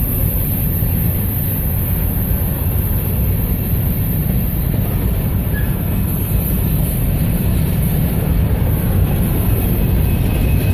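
Covered hopper cars of a long freight train rolling past close by: a steady rumble of steel wheels on the rails.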